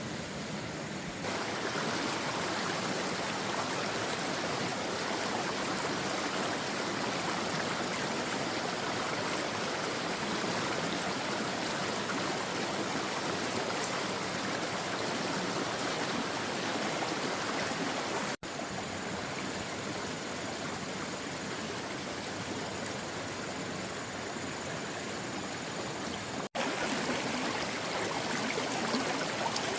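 Flowing water rushing steadily, with a step up in level about a second in and two brief drop-outs later on, where the footage is cut.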